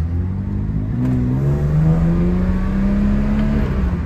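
1972 BMW Bavaria's straight-six engine pulling under acceleration, heard from inside the cabin, its pitch rising steadily for about three seconds. The revs drop near the end as it shifts up.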